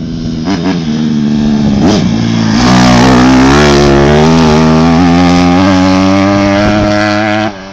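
Dirt bike engine under throttle, getting louder over the first few seconds and then running loud and nearly steady. It drops off sharply just before the end.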